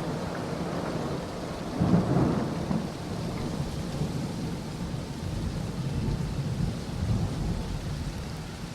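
Steady rain with rolling thunder, a thunderstorm; a louder rumble of thunder swells about two seconds in.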